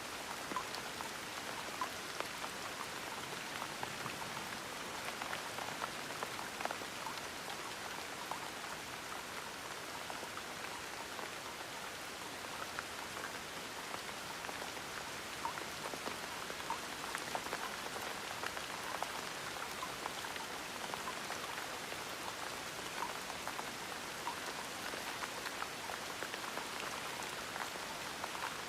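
Steady gentle rain, a soft even patter with many small drops ticking on a surface.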